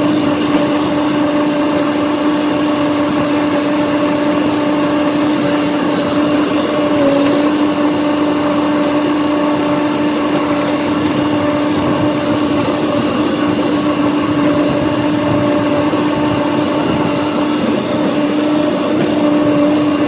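John Deere diesel tractor engine running steadily under load while pulling a brush hog, heard from the operator's seat. The engine holds an even pitch, dipping briefly about seven seconds in.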